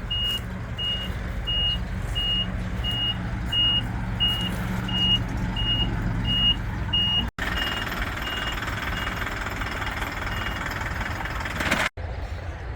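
A reversing vehicle's backup alarm beeping about twice a second over its running engine as it backs up. The beeps grow fainter about seven seconds in and stop a couple of seconds before the end, leaving the engine running.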